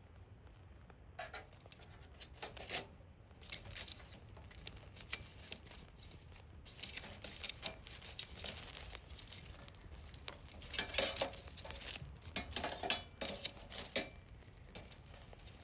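Hardwood fire crackling, with irregular small pops that come in thicker clusters midway and toward the end.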